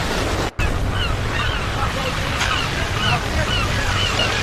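Ocean surf washing steadily, with many short, hooked bird calls over it. The sound cuts out completely for a split second about half a second in.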